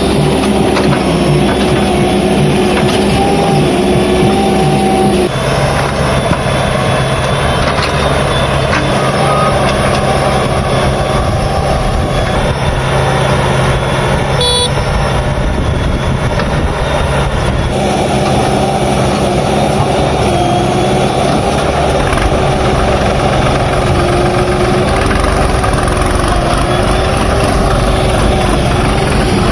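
Diesel engines of a backhoe loader and a tractor running steadily under load while mud is loaded. The engine note shifts about five seconds in and again about eighteen seconds in.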